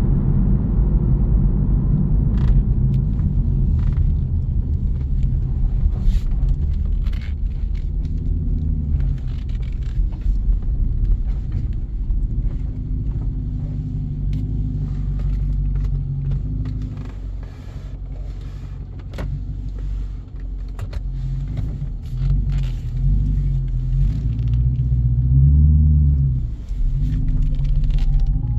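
The Jeep Grand Cherokee's 5.7 Hemi V8 exhaust rumbling while driving. It eases off for a few seconds past the middle, then builds again to a brief louder surge near the end before dropping back.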